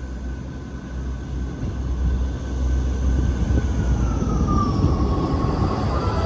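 A train approaching and growing steadily louder, with a high whine that falls in pitch about two-thirds of the way through.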